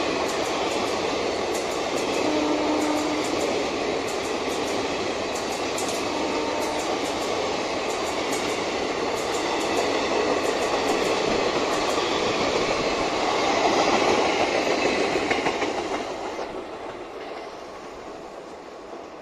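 Indian Railways express passenger coaches passing close at speed: a steady, loud rush of wheels on rail, with many sharp clicks. The noise falls away over the last few seconds.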